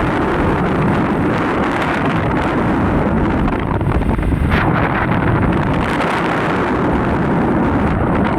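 Loud, steady rush of wind buffeting the microphone, with a low rumble underneath.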